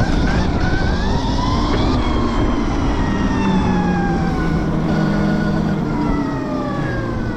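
Electric dirt bike motor whining under throttle, the pitch rising over the first two seconds and then falling slowly as the bike slows, over a low rush of wind on the microphone.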